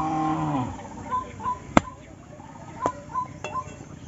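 Small birds chirping in short repeated high notes, with a brief low voice-like hum at the start and a sharp click just under two seconds in, followed by two fainter clicks.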